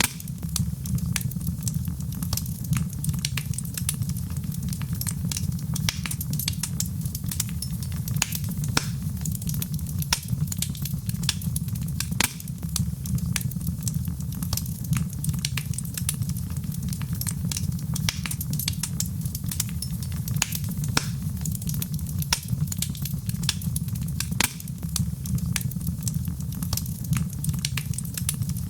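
Wood fire burning in a fireplace, with a steady low rumble and frequent sharp, irregular crackles and pops.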